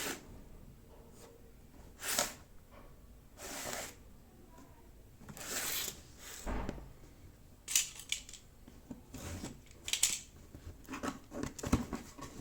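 Handling noise: a series of brief rustling swishes and sharp clicks, irregularly spaced with short quiet gaps between them.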